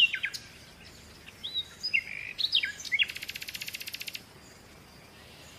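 Weaver bird chirping: short whistled chirps, then a fast buzzy rattle lasting about a second, after which only faint background remains.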